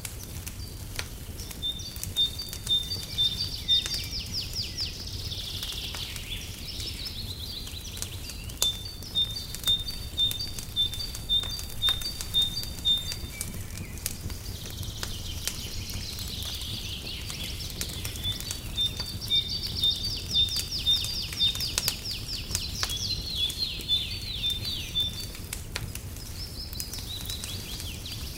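Birdsong of repeated high piping notes and fast trills, in two long phrases with a short gap between them, over a crackling fireplace with scattered sharp pops and a low steady rumble.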